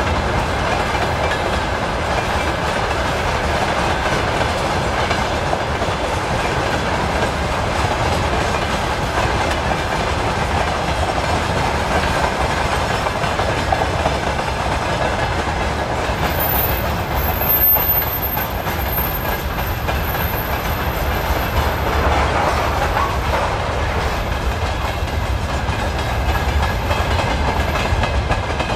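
Freight train of tank cars rolling past with a steady rumble and clatter of steel wheels on the rails.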